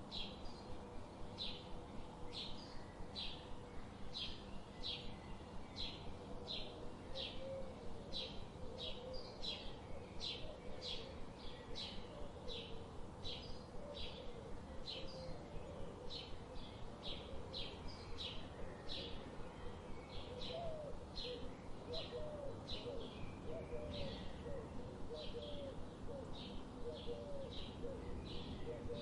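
Forest ambience: a bird repeats a short, high chirp about twice a second, steadily throughout. Lower curling call notes come in from about a quarter of the way in and run more thickly over the last third, above a steady background hiss.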